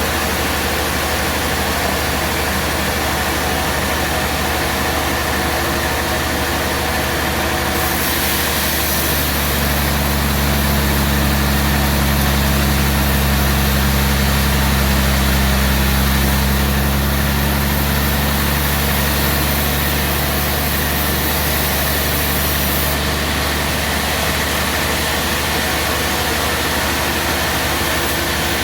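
Portable band sawmill running steadily under engine power. For about fourteen seconds in the middle, a deeper hum and a brighter hiss join in, then drop away again.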